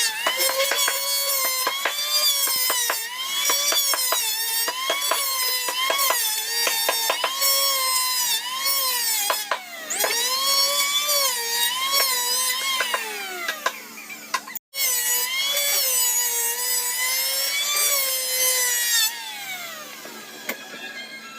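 High-speed electric power tool cutting wood, its motor whine dipping in pitch again and again as it bites into the wood and recovering between cuts, with sharp cracks of chips throughout. It stops for an instant about two-thirds of the way through, and near the end the motor winds down with a falling whine.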